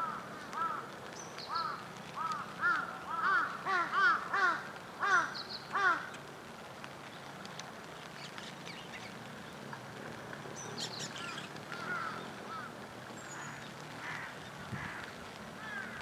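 A bird gives a series of about ten short, harsh, pitched calls, coming faster and louder, which stop about six seconds in. Fainter high chirps from small birds follow.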